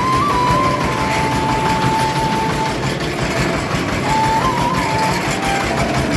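A farm machine's engine running steadily in a rice field. A thin melody of held notes steps up and down over it.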